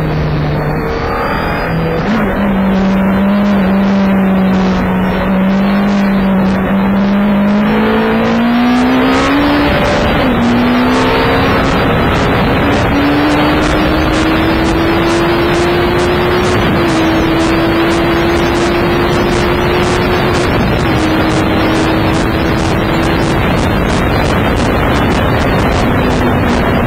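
BMW K1200S inline-four engine heard on board at track speed, under heavy wind rush. The engine note climbs, dips briefly at a gear change about ten seconds in, then holds high and settles lower near the end.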